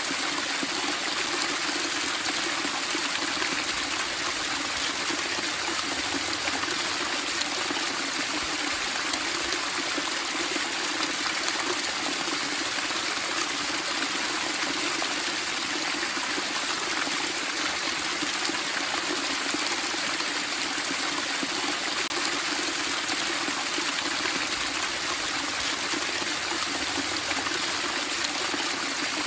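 Running water splashing and trickling steadily, an even, unbroken rush.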